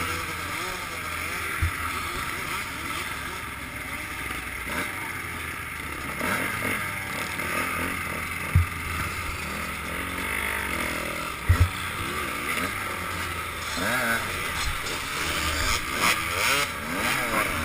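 Enduro motorcycle engines running in a slow queue, heard from the camera's own bike, blipping and revving more near the end as the bike pulls away. A few sharp low knocks come through the camera mount.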